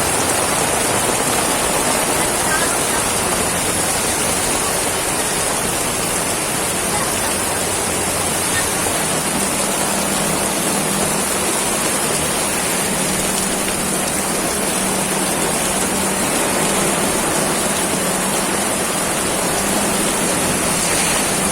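Very heavy rain pouring down, a steady, loud hiss. A faint low hum joins about nine seconds in.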